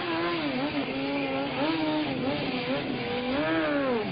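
A vehicle engine running at high revs, its pitch wavering up and down with the throttle.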